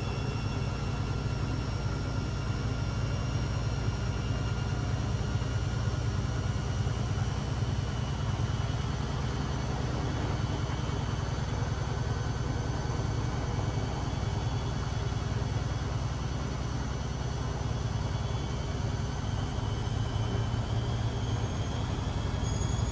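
Beko WMB 71643 PTE washing machine running, its drum giving a steady low hum under a high whine from the brushed motor that drifts a little in pitch and starts to rise near the end.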